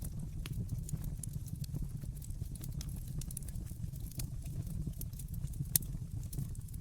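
Wood fire crackling, with irregular sharp pops over a steady low rumble of the flames; one louder pop near the end.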